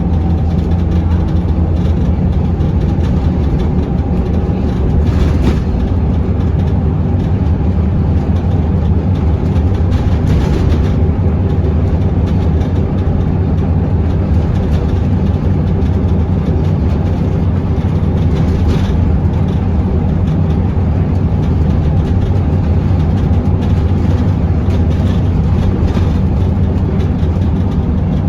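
Scania L94UB Euro 3 city bus running steadily on the road, its diesel engine giving a constant low drone under road and body noise, with a few brief knocks or rattles.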